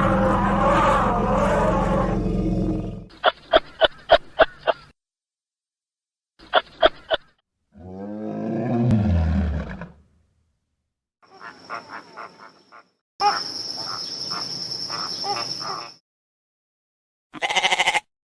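A string of separately cut wild animal calls with dead silences between them: first a long, loud roar with a deep rumble, then groups of quick sharp calls, a call that falls in pitch, and further short bursts, the later ones over a steady high whine.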